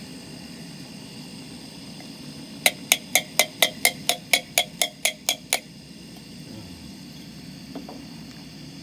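A quick, even run of about thirteen sharp metallic clicks, four or five a second, starting about three seconds in and lasting about three seconds, as the can of Rotel is dealt with at the pot.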